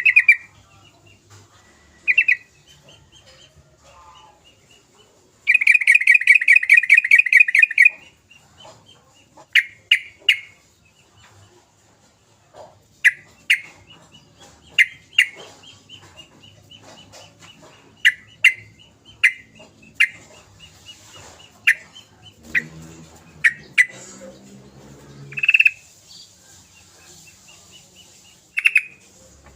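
Yellow-vented bulbul (trucukan) calling: short, sharp downward-slurred notes repeated every second or two, with a loud rapid chattering trill of about two and a half seconds some five seconds in. A lower, harsher call sounds for a few seconds in the later part.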